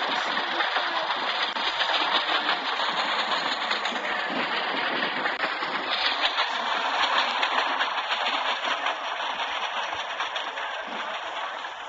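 Train running on the track: a steady rushing noise that eases slightly near the end.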